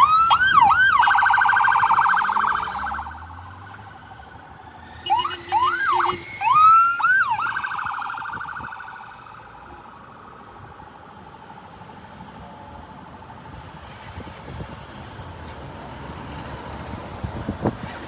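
Emergency vehicle siren sounding in two loud stretches: quick rising whoops that run into a fast warbling yelp, first at the start and again about five seconds later.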